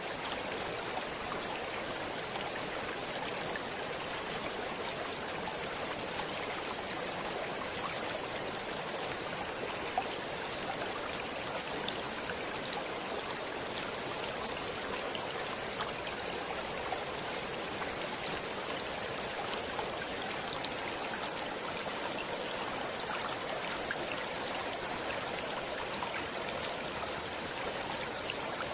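Flowing stream: a steady rush of running water with small splashes and droplet ticks scattered through it.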